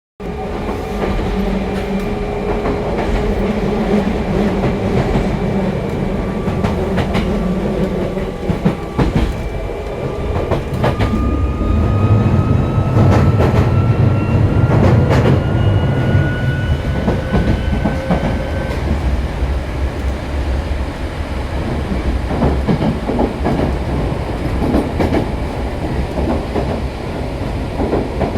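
Nose Electric Railway train car 1737 running between stations: steady rail noise with wheels clicking over rail joints, and a thin whine that rises slowly in pitch through the middle as the train gathers speed.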